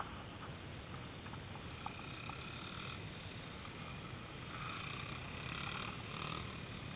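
Pit bike engine running, a faint whine that swells and fades over the second half.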